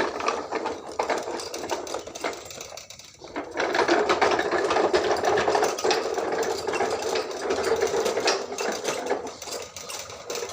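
A small electric motor whirring with a rapid, gear-like rattle, as from a motorised toy truck. It dips briefly about three seconds in, then runs on louder.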